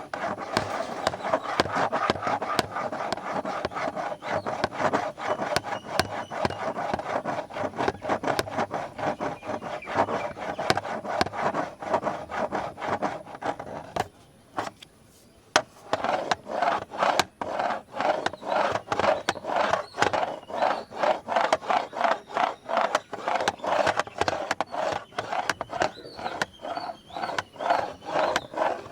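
Close-up scratching on the body of a large camera, rapid rubbing strokes one after another. About halfway through the scratching stops briefly, then resumes in steady strokes of about three a second.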